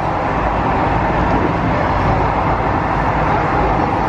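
Indian passenger train coach in motion: a steady, loud running noise of the wheels on the rails and the moving carriage.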